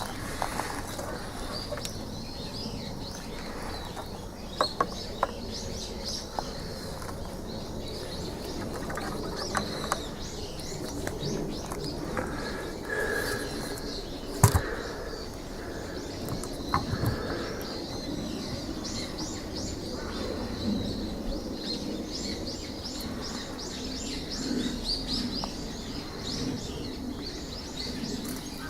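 Small birds chirping in quick repeated runs over a steady background hiss, with a few sharp clicks or knocks, the loudest about halfway through.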